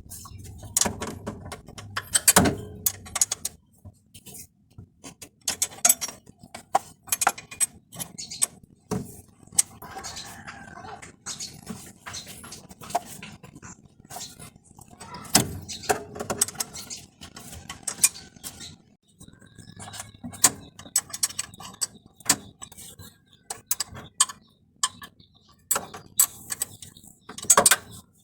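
Hand tools clinking and knocking against metal in irregular strikes while the wiring and mounting bolts of a starter motor are undone.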